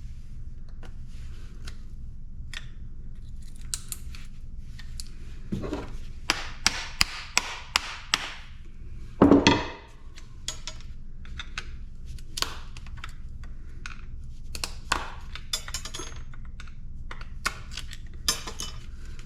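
Hand tools working on scrap metal parts: scattered clicks, clinks and knocks, with a louder clatter about nine seconds in, over a steady low hum.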